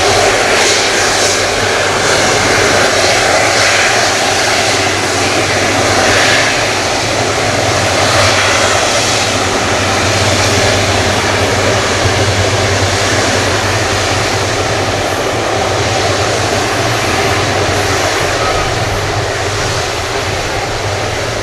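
Airbus A330-343's twin Rolls-Royce Trent 700 jet engines running, a loud, steady roar with a deep hum and hiss that holds throughout.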